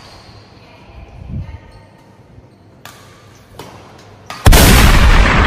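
Badminton racket strikes on a shuttlecock, a few sharp smacks spaced under a second apart. About four and a half seconds in, a sudden very loud burst of noise breaks in and fades over the next second or so; it is the loudest thing here.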